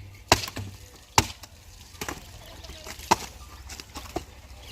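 Axe chopping firewood: three sharp strikes into the wood, with a few lighter knocks between them.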